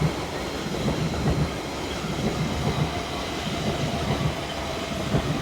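Elizabeth line Class 345 electric train running through the station without stopping, a steady rumble with its wheels clattering rhythmically over the rail joints.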